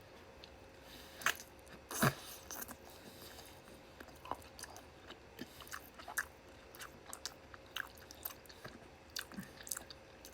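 Close-miked mouth noises of a person chewing chicken skewer meat: irregular wet smacks and small clicks, with two louder ones about one and two seconds in.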